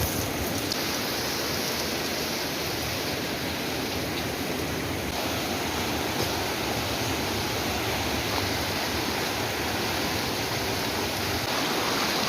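Steady rushing water, an even wash of noise with no breaks.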